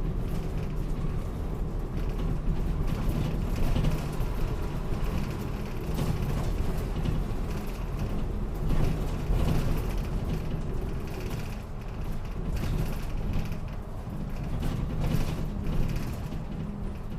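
Route bus running between stops, heard from inside the cabin: a steady low engine and drivetrain drone with the interior creaking and rattling throughout.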